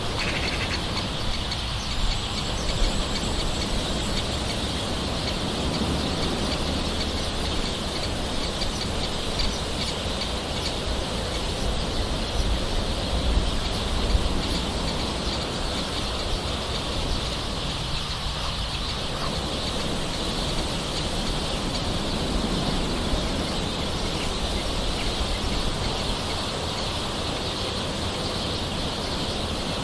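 Steady gentle rain with birds calling in the background.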